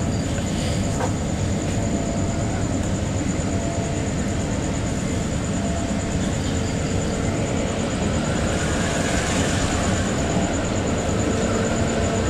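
Steady rumble of railway wheels on track, heard through the window glass from inside a passenger coach as another passenger train passes close alongside. A thin high whine runs under it, and the rumble grows a little louder from about eight seconds in.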